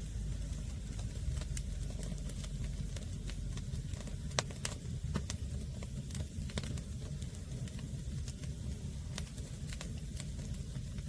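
Wood fire of green, unseasoned firewood crackling, with scattered sharp pops over a low steady rumble.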